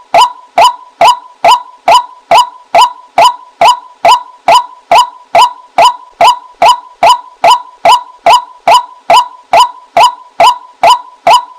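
Female white-breasted waterhen calls, used as a lure: short, loud, evenly spaced calls repeated about two and a half times a second.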